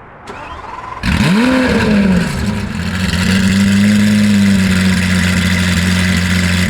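A car engine starting: a brief crank, then it catches about a second in with a loud flare of revs that rises and drops back, settling into a steady, loud idle.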